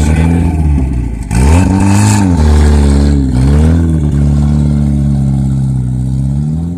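Straight-piped engine being revved: two blips where the pitch rises and falls, then a steady raised idle that drops away near the end.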